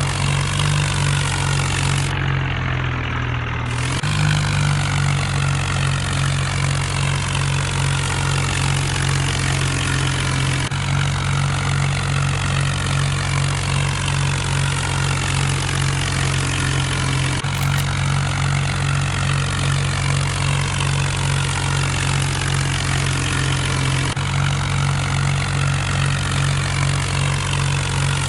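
Kubota tractor's diesel engine running steadily, with abrupt changes in its sound a few times.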